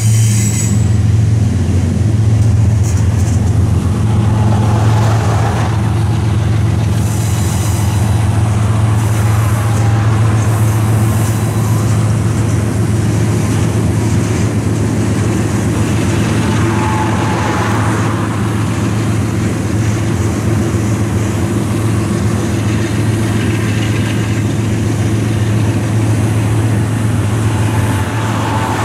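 Freight train cars rolling past on the rails in a loud, steady rumble, with short high wheel squeals near the start and again about seven seconds in.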